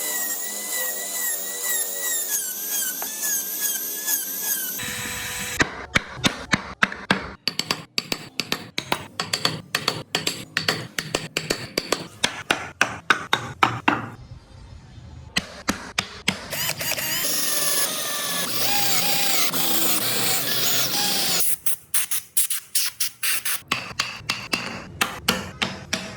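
Wood-carving work: a small power tool whines with a wavering pitch for a few seconds, then gives way to a run of rapid, regular hammer strikes, a few a second. About halfway through the power tool runs again briefly before the hammer strikes resume.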